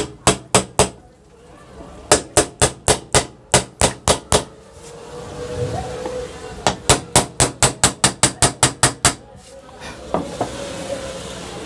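Light hammer taps on the upper half of a ceiling fan's body, seating it onto the new bearing. The taps come in three quick runs of about five a second, the last run the longest.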